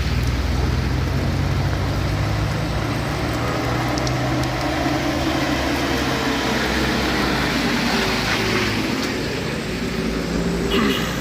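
Heavy truck engine running steadily, with a brief horn toot near the end.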